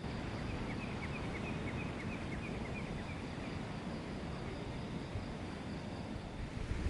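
Steady wind and surf noise with a low rumble, over which a small bird gives a quick run of short, high chirps, about four a second, for roughly three seconds in the first half.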